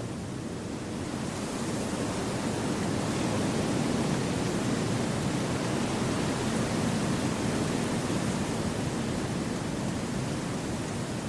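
Wind rushing through forest trees: a steady, even rush that swells over the first few seconds and then holds.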